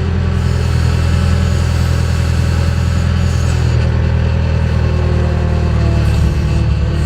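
JCB backhoe loader's diesel engine running steadily and loud, working at the dig.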